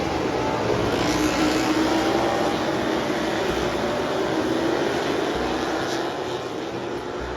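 Racing motorcycle engines running loud and steady, their pitch slowly falling over several seconds.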